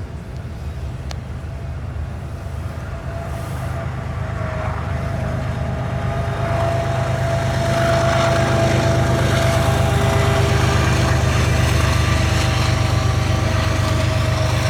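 Diesel locomotive engine running with a steady low rumble, growing louder over the first half as the train draws closer, then holding level.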